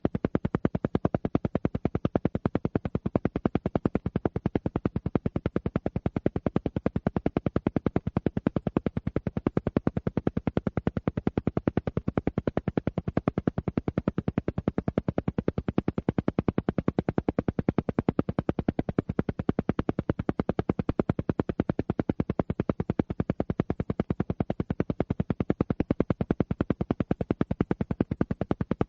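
Synthesized alpha-wave brainwave-entrainment track: a fast, perfectly even train of short pulses, many a second, without change or pause.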